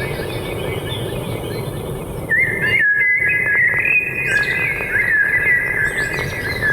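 Forest birds singing and chirping continuously in high, wavering whistled phrases, louder from a little over two seconds in, over a steady low background hiss, with a brief break in all sound about three seconds in.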